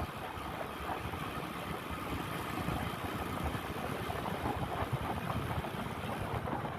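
Motorcycle engine running steadily at low revs, close to idle.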